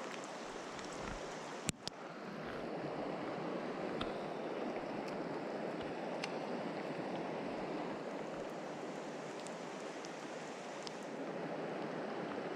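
Mountain stream water rushing steadily, with a sharp click about two seconds in.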